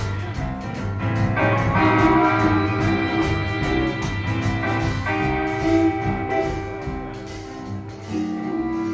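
Live band of electric guitars, harmonica, bass and drums playing a gospel-blues number, held notes over a steady drum beat. Near the end a long chord is struck and held as the song winds down.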